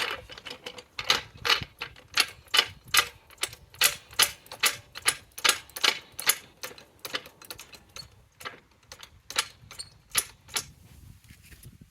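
A run of sharp clicks from hand-tool work on a car wheel during a tyre change, about two to four a second and irregular, thinning out near the end.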